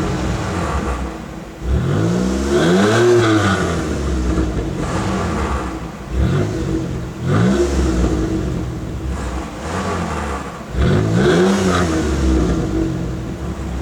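A car engine idling, then revved three times; each time the pitch climbs sharply and falls back to idle, about two, six and eleven seconds in.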